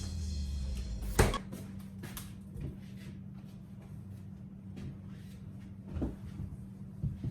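A sharp knock about a second in, then a few softer knocks and clicks, over a steady low hum: household bumps like a cabinet door or things set down on a table.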